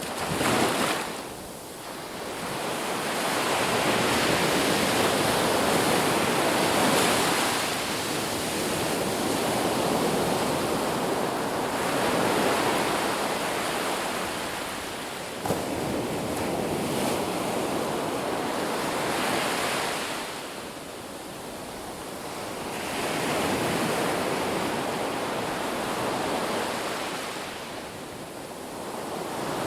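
Ocean surf breaking on a beach: a steady wash of waves that swells and fades every several seconds, with a brief tick about halfway through.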